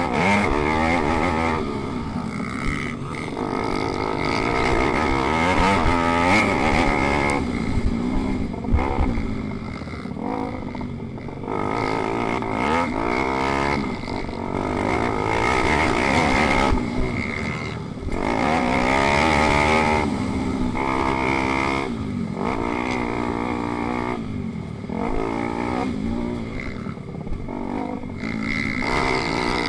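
Pit bike engine racing, its pitch climbing and dropping again and again as the rider accelerates, shifts and backs off.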